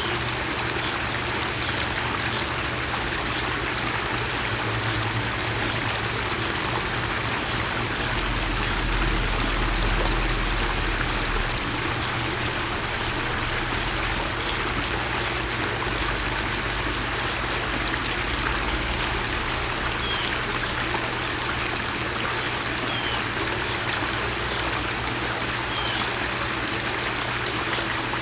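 Steady rushing noise like running water, over a low hum, with a deeper rumble swelling about a third of the way in. Three short, faint downward chirps from a small bird come in the last third.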